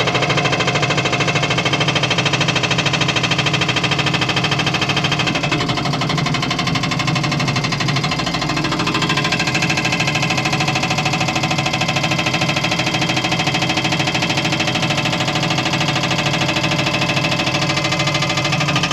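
Skid steer's hydraulic breaker hammer pounding shale rock in rapid, continuous blows, with the skid steer's engine running under it.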